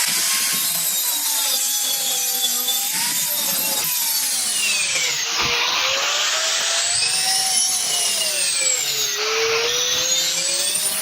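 Electric power tool cutting, its motor whine slowly dropping and recovering in pitch as it is loaded, over a steady gritty hiss.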